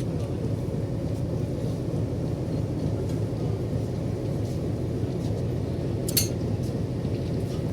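Steady low rumble of railway station background noise, with a single sharp clink about six seconds in.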